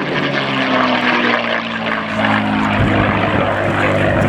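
Propeller aircraft flying past, its engine note sliding slowly down in pitch over a broad rushing noise.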